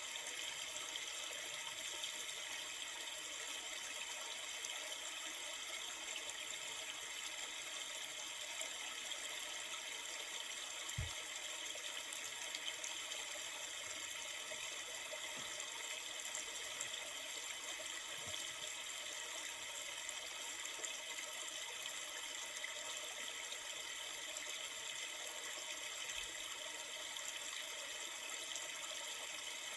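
River water flowing, a steady rushing with no pauses or changes.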